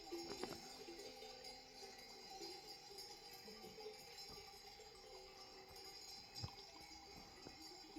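Faint clanking and tinkling of bells worn by a flock of sheep, a few ringing tones with scattered small knocks and one sharper knock about six and a half seconds in.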